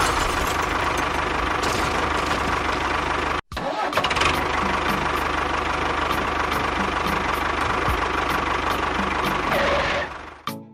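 A small engine running steadily, broken by a brief total dropout about a third of the way in and fading out near the end.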